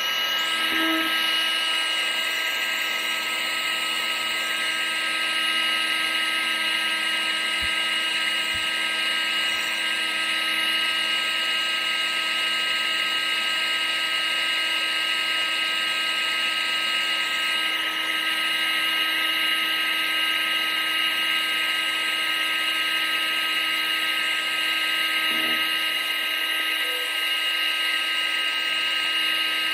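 Vacuum cleaner motor running steadily: a constant high whine over a rush of air, unchanging throughout.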